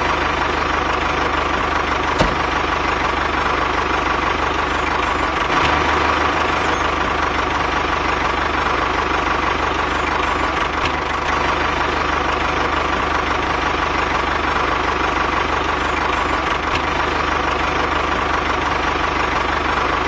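Tractor engine running steadily at idle, an even, unchanging drone.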